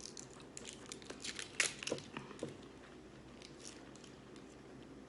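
Close-up eating sounds of a fried chicken wrap: a run of crisp crunches and crackles in the first half, the sharpest about a second and a half in, then quieter chewing.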